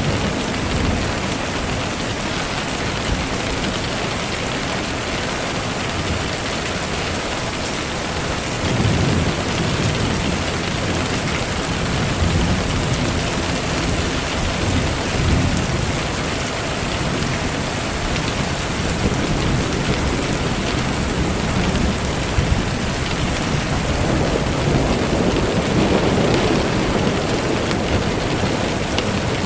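Steady rain falling, with low rolling rumbles of thunder swelling up about a third of the way in and again near the end.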